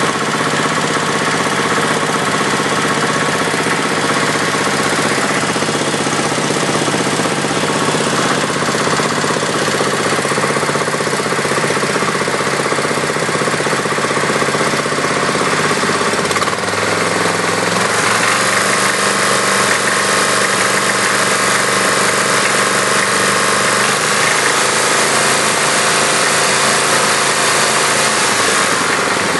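Kohler K321 single-cylinder engine in a John Deere 314 garden tractor running with a rattle despite a recent rebuild; the engine is also said to misfire occasionally. Its note changes a little over halfway through.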